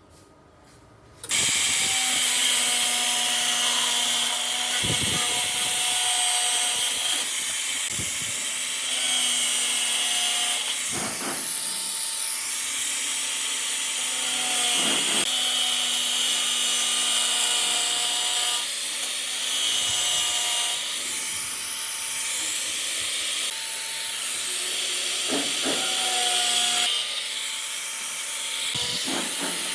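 A power tool working sheet metal starts abruptly about a second in and runs steadily, a loud high hiss with a faint whine over it.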